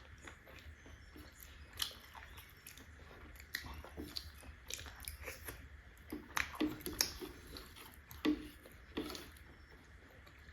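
Mouth chewing and smacking on steamed momos (dumplings), close to the microphone: irregular soft wet smacks and clicks, with a few louder ones in the second half.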